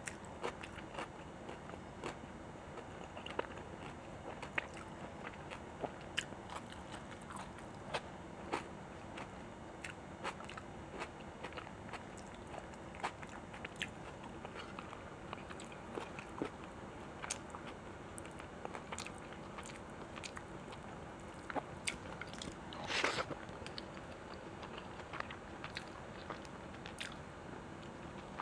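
A person eating close to the microphone: continuous chewing with many small wet mouth clicks and scattered crunches, and one louder crunch about 23 seconds in.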